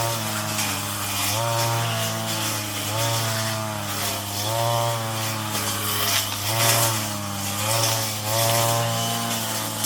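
Brush cutter engine running at high speed. Its pitch dips and recovers every second or two as it bites into weeds, over a steady hiss from the cutting.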